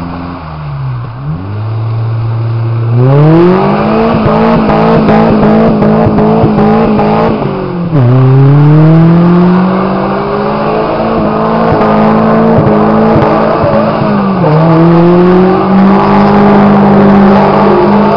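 Small Suzuki 4x4's engine revving hard as it spins its wheels on water-covered ice. The revs climb steeply about three seconds in and hold high, then drop and climb again twice, around eight and fourteen seconds in.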